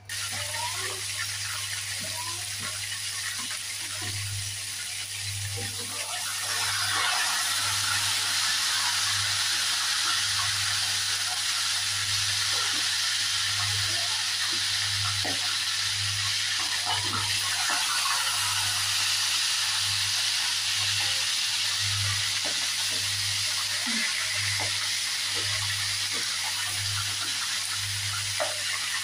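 Chicken pieces deep-frying in hot oil in a pan: a steady sizzle with scattered crackling pops, which gets louder about six or seven seconds in as the frying picks up.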